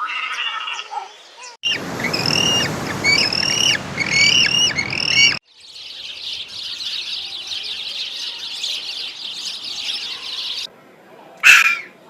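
Birds calling in a string of separate clips. First comes a run of repeated arched chirps over a noisy background. Then a dense, high-pitched chatter lasts several seconds, and a single short, loud call follows near the end.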